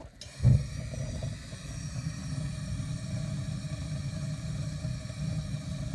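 Williams gas wall furnace's main burner catching from the pilot light with a brief thump about half a second in, then burning with a steady low rumble.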